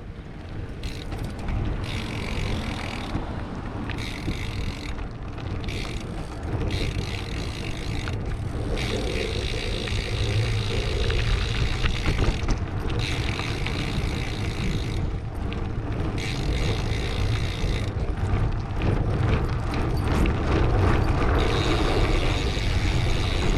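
Steady wind and road noise from riding a BMX bike, heard through a GoPro action camera's microphone, growing gradually louder.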